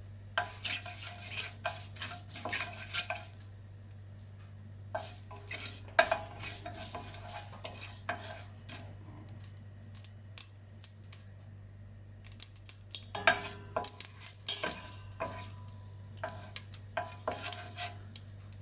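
Mustard seeds popping in hot oil in a pan for a tempering, a run of irregular sharp pops and crackles that comes in bursts with lulls between, over a low steady hum.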